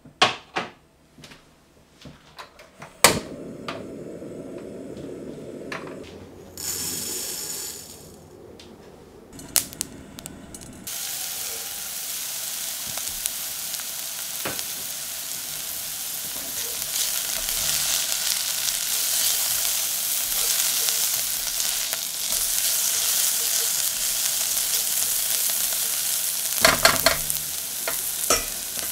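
Finely chopped shallots sizzling in olive oil in a saucepan. The sizzle starts suddenly about a third of the way in and grows louder. There are a few knocks near the start and a quick run of clicks from stirring near the end.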